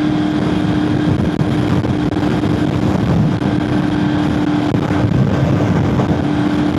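The V4 engine of a 2001 Honda VFR800FI motorcycle running at a steady, unchanging pitch while cruising, with heavy wind rushing over the microphone.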